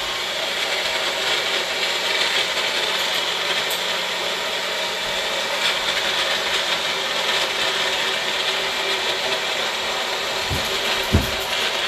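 Magic Bullet blender running steadily, its motor whirring as it purées a thick chickpea hummus mix, with a couple of brief knocks near the end.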